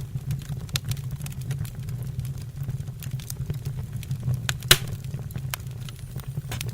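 Wood fire burning in a fireplace: a steady low rumble of flame under a constant scatter of crackles, with one loud sharp pop about two-thirds of the way through.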